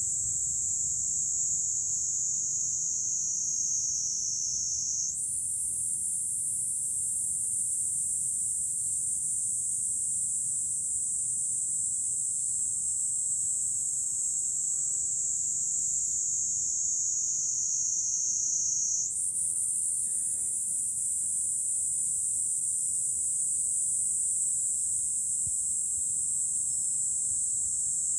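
Dense chorus of cicadas, a continuous high-pitched buzzing whose pitch slowly sags and jumps back up twice, with a faint low rumble underneath.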